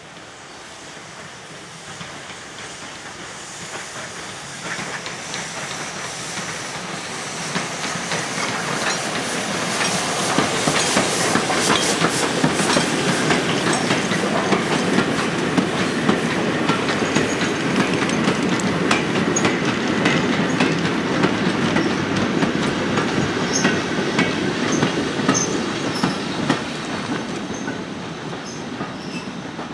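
A steam-hauled goods train of vintage wagons passing: the sound builds as the locomotive approaches over the first ten seconds or so, then the wagons' wheels clatter and click over the rail joints as they roll by, fading as the train draws away near the end.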